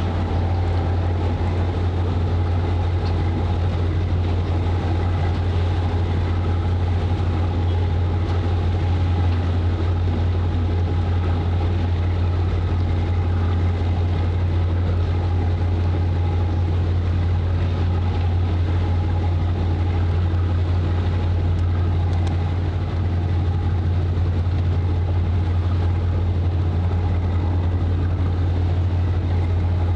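A ship's or boat's engine running with a steady low drone and a constant hum, unchanging throughout.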